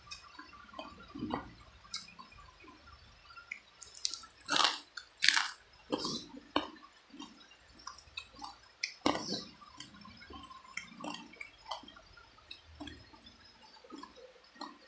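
Close-miked chewing and wet mouth smacks of someone eating spicy chicken feet, in irregular short bites and clicks, loudest in a cluster about four to five seconds in and again near nine seconds.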